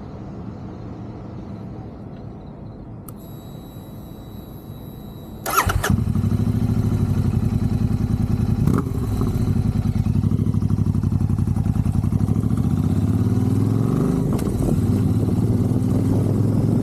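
Royal Enfield Super Meteor 650's 648 cc parallel-twin engine being started through an SS MotoCorp full exhaust system: a faint high whine, then a brief crank about five and a half seconds in, and the engine catches and settles into a loud, steady idle.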